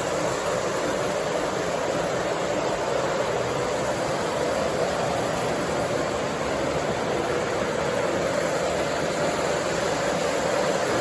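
O scale model train running on its track: a steady hum and rolling noise from the motor and wheels, with no clear breaks or clicks.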